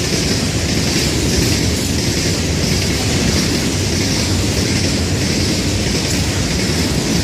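Florida East Coast Railway freight train's cars rolling past at speed: a steady rumble of steel wheels on rail with a clatter repeating about twice a second.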